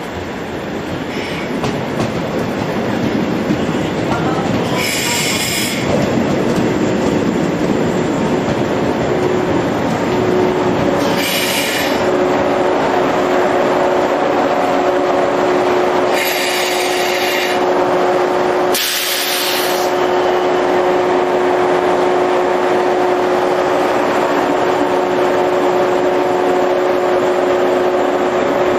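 A JR 103 series electric train running, with a steady hum of several tones setting in from about ten seconds in. Four short high-pitched squeals come within the first twenty seconds.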